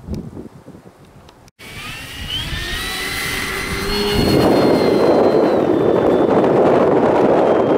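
Wind gusting on the microphone, then, after an abrupt cut, the E-flite Draco RC plane's brushless electric motor and propeller whining up in pitch as the throttle opens and holding a high steady whine. About halfway through, loud wind rumble on the microphone rises under the whine and becomes the loudest sound.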